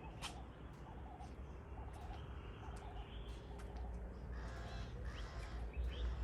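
Birds calling outdoors: a short call repeated about twice a second, with sharp high chirps over it, and a louder, harsher run of calls about four to five seconds in.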